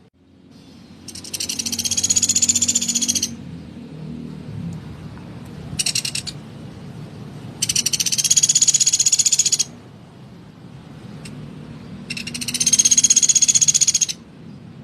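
Pelatuk beras woodpecker giving harsh, rapid rattling call bursts, the kind of rough 'kasaran' call used as master material for songbirds. Three long rattles of about two seconds each, with a short burst between the first two.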